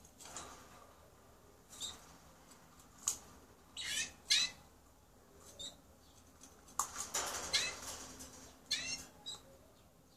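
Canary giving short, separate chirps, each a quick downward sweep, scattered through the stretch with a busier run about seven seconds in.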